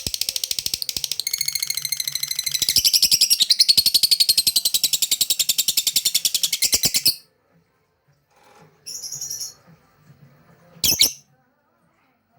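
Lovebird singing a long, fast chattering trill of high chirps that stops abruptly about seven seconds in, followed by a few softer chirps and a sharp single call near the end.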